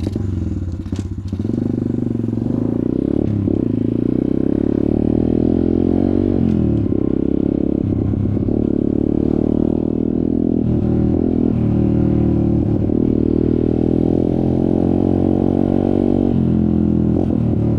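Off-road motorcycle engine running while riding. The throttle rises and falls, with several brief dips in pitch as the rider backs off or changes gear.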